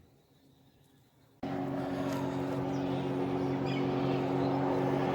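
Jet ski engine running with a steady, even-pitched hum that cuts in abruptly about a second and a half in and grows slightly louder.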